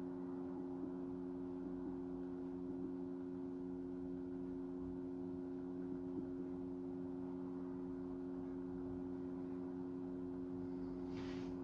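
A steady low hum of a few fixed tones, unchanging, with a brief hiss about eleven seconds in.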